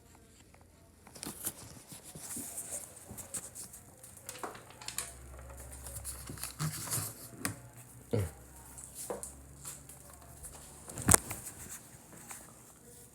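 Rustling, scraping and clicking handling noises, with one sharp knock about eleven seconds in, the loudest sound.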